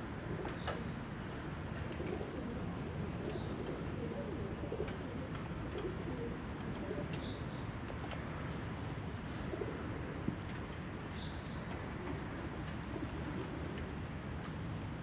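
Steady hiss of falling rain, with birds calling: short high falling chirps every few seconds and low cooing calls.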